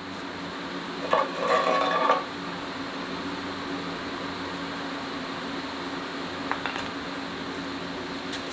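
Metal engine parts scraping and clinking for about a second, about a second in, as a connecting rod cap is handled. After that only a steady low hum, with a few faint clicks near the end.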